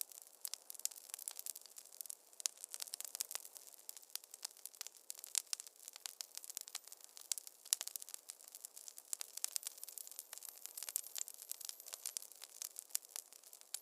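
Wood fire crackling in a fireplace: a dense, irregular stream of sharp pops and snaps over a soft hiss.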